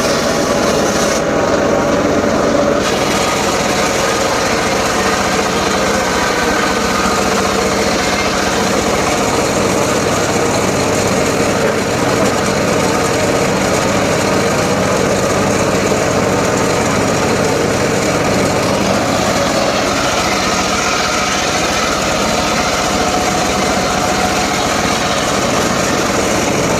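Small engine of a power saw running steadily at speed for the whole stretch, with no clear pauses.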